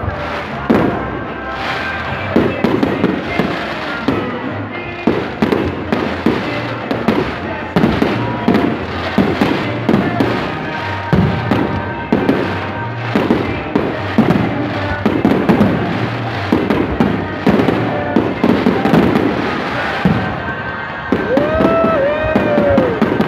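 Aerial fireworks display, shells bursting in a dense, continuous run of bangs and crackles, with music playing underneath.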